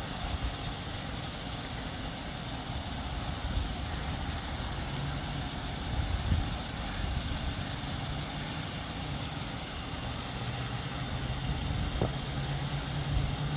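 A vehicle engine running steadily with a low, even hum, with a couple of faint knocks.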